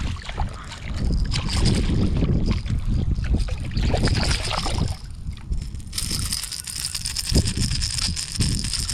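Wind buffeting the microphone and water sloshing and gurgling against a kayak hull while a hooked trout is played. A steady high-pitched whine joins about six seconds in.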